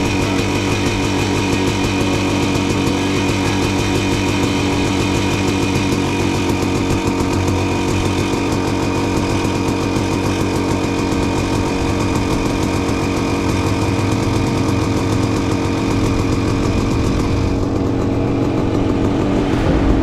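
Dirt bike engine running at a steady pitch, with a high hiss that fades a few seconds before the end.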